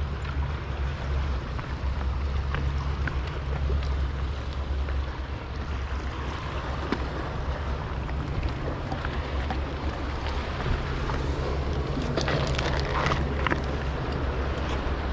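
Steady low rumble of a running motor, with wind buffeting the microphone. A brief cluster of light clattering knocks comes about twelve seconds in.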